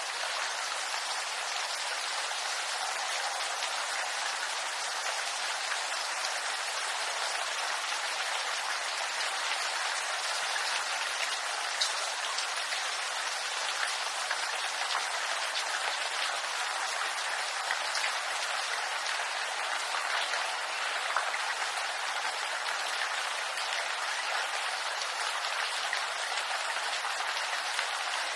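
Steady rain falling on bamboo leaves: an even hiss with scattered sharper drop ticks, a few louder ones around the middle.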